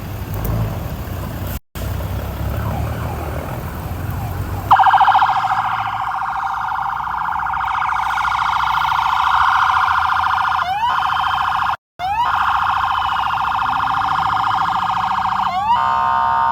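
Low motorcycle engine and road rumble, then about five seconds in a police siren starts abruptly and goes on loud with a fast warble, with a few quick rising sweeps in its last seconds. The sound cuts out for an instant twice.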